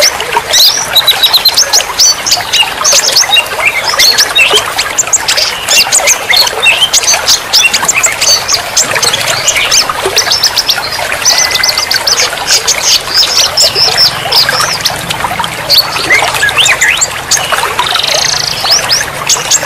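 Dense mix of songbirds chirping and whistling in quick, overlapping phrases, over a steady trickle of running water.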